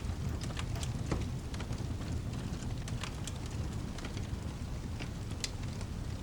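Rain-and-fireplace ambience: a steady low rumble and the hiss of rain, with irregular sharp crackles and pops from a wood fire scattered throughout.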